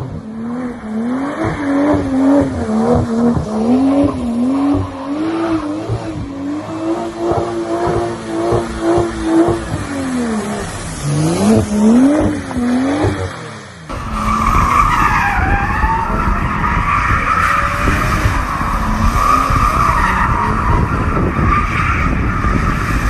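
BMW M340i's turbocharged straight-six revving up and down as the car is held in a drift. About 14 seconds in, the sound cuts abruptly to loud tyre squeal over the engine.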